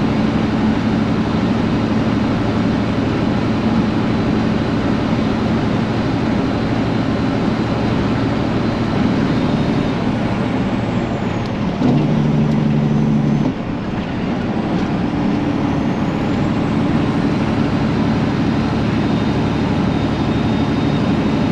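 Detroit Diesel 12.7-litre engine of a 2000 International 9900ix semi truck running steadily under way, heard from inside the cab. About halfway through, its note grows louder for a second or two, then drops off briefly.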